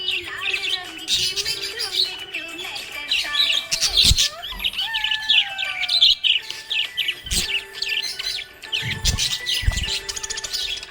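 A flock of small pet parrots chirping and twittering rapidly and continuously, many quick calls overlapping. A few low thumps come through, about four seconds in and three times in the second half.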